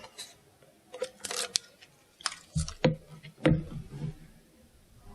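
Craft paper being handled: scattered rustles and light clicks, with a few soft thumps in the middle, as strips of colored paper are cut and laid out.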